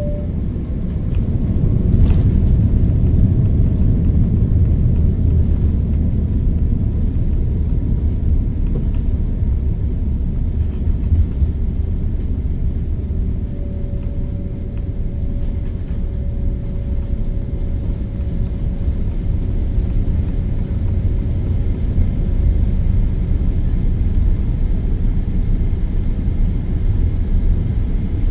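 Deep, steady rumble inside the cabin of a Boeing 787-9 airliner during its landing, with one sharp knock about two seconds in. A faint steady tone rides over the rumble through the middle stretch.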